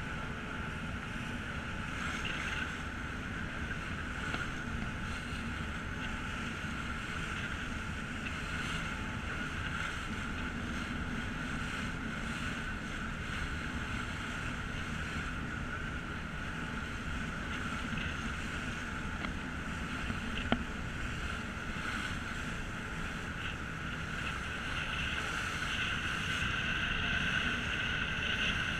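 Steady drone of a passenger ferry under way: engine and hull noise with wind and water rushing past. There is one brief knock about twenty seconds in, and the drone grows a little louder near the end.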